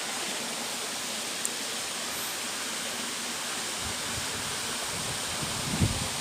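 Steady rushing of a waterfall, an even hiss of falling water. A short low thump near the end.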